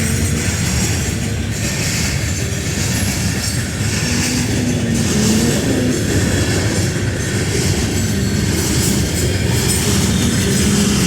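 Freight train rolling past close by: a loud, steady rumble of railcars on the rails.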